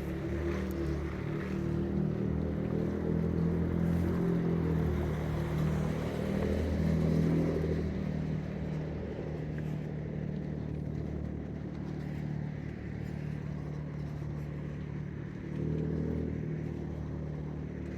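A car engine running steadily, its note shifting up and down, louder between about two and eight seconds in.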